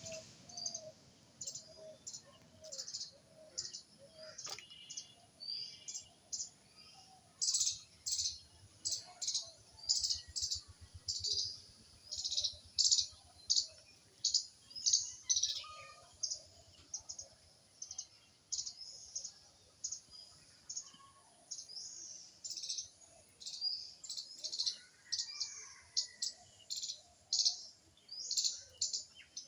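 Songbirds chirping: a steady run of short, high chirps, about one or two a second, with a lower, repeated call from another bird in the first few seconds.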